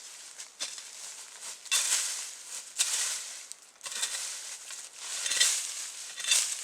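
Repeated rustling and crunching noises in several bursts about a second apart.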